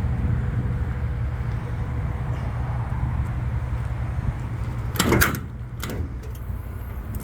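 A truck engine idling steadily as a low hum, with a metal utility-body compartment door clanking open about five seconds in, followed by a couple of lighter knocks.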